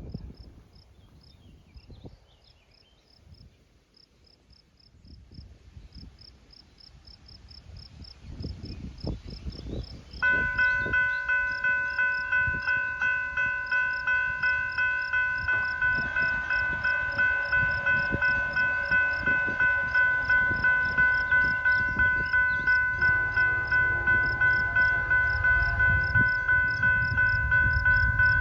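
Railroad grade-crossing bell starting to ring about ten seconds in, with steady strikes about twice a second, as the crossing signals warn of an approaching freight train. The train's low rumble builds near the end.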